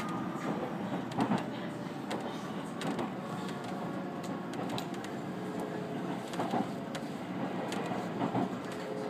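JR 313 series electric train running at speed, heard from inside the carriage: a steady rumble of wheels on rail with irregular clicks from the track.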